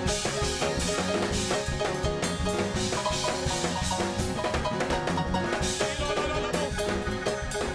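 Fast, upbeat live church music: a drum kit playing a quick busy beat under steady pitched instrument notes.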